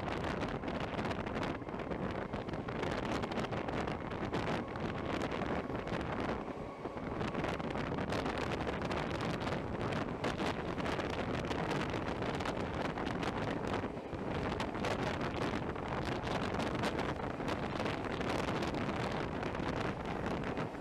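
Wind buffeting the microphone at the open doorway of a moving electric train, over the train's steady running noise on the rails.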